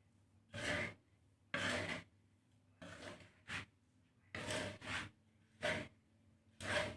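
Spatula stirring a pan of dry-roasting millet and rice seed: about eight scraping strokes through the grains, roughly one a second, with short pauses between.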